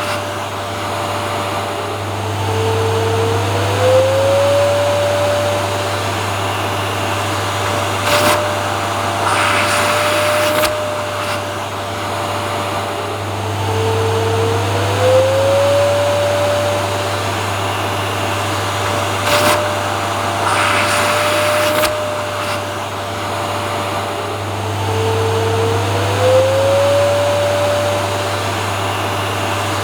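Vacuum cleaner running steadily, a low hum under a motor whine that dips and glides back up about every eleven seconds, with brief hissing surges in between.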